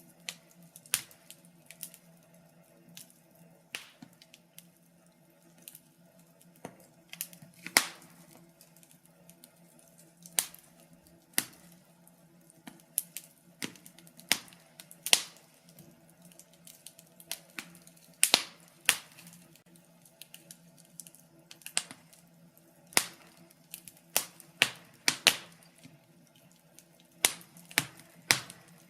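Wood fire burning in a fireplace: irregular sharp crackles and pops, sometimes in quick clusters, over a faint steady low hum.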